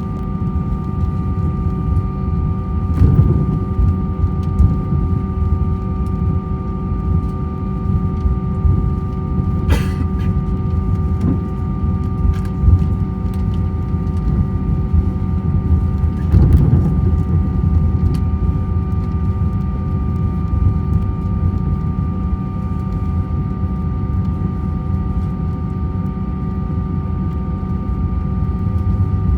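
Cabin sound of an Airbus A321-200 taxiing: the engines idle with a steady whine of several held tones over a low rumble from the wheels. A few thumps come through, the strongest about 3, 10 and 16 seconds in.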